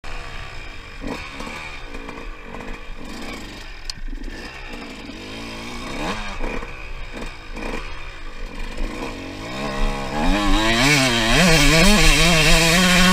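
Two-stroke 125cc single-cylinder dirt bike engine, a Suzuki RM125, revving in short blips that rise and fall. From about ten seconds in it runs louder and higher under sustained throttle, wavering before holding a steady pitch near the end.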